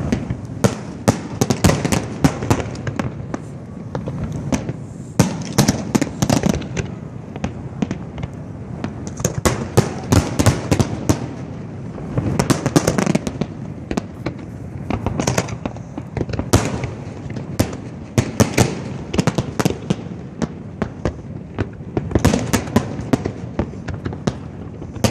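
Fireworks display going off: a dense, irregular run of sharp cracks and bangs, several a second, over a continuous low rumble.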